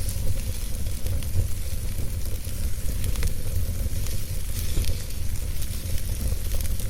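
Wood fire burning steadily, with a low rumble under a constant hiss and scattered small crackles and pops.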